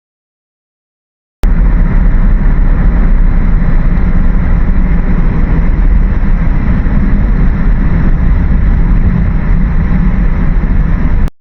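Loud, steady rumbling noise, heaviest in the low end, with no tone or rhythm in it; it starts suddenly about a second and a half in and cuts off abruptly near the end.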